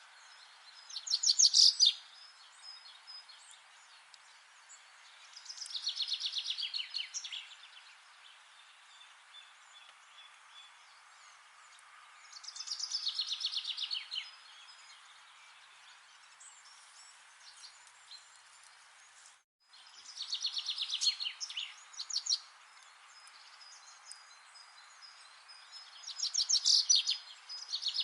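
A songbird repeating a short, fast trilled song phrase that falls in pitch, five times, about every six to seven seconds, over a steady soft hiss of forest ambience. The sound cuts out completely for a moment about two-thirds of the way through.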